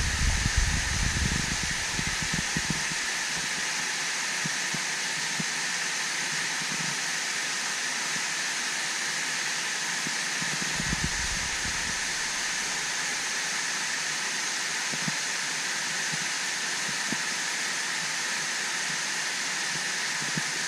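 Steady rushing hiss of a waterfall, unbroken throughout, with brief low rumbles in the first couple of seconds and again about halfway through.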